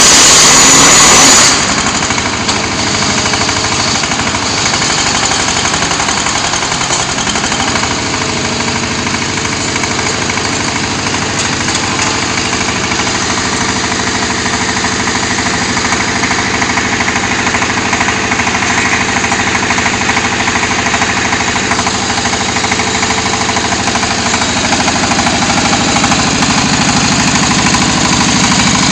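Diesel engine of a QT4-30 hydraulic block-making machine running steadily with a fast, even knocking pulse. It is louder for the first second and a half, then settles.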